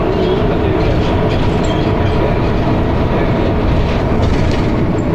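Dennis Arrow single-decker bus heard from inside while under way: steady engine and drivetrain rumble with faint rattles of the bodywork.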